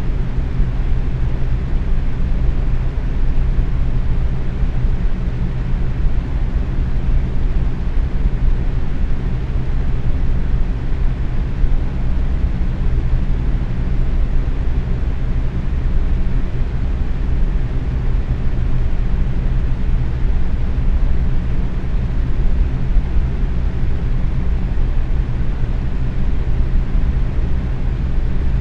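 Box fan running steadily at medium speed: an even whoosh of moving air with a low motor hum.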